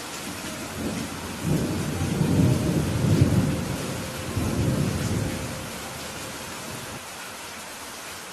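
Steady rain with a low roll of thunder that builds about a second and a half in, peaks around three seconds and rumbles away by about six seconds.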